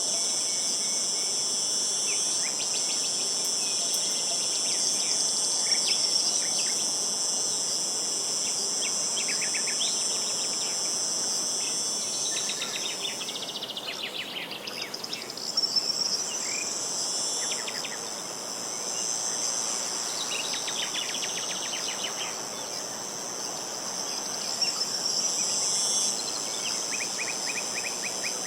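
Steady high-pitched insect chorus, with short trilled bird calls scattered throughout. The insect sound fades out briefly about halfway through, then returns.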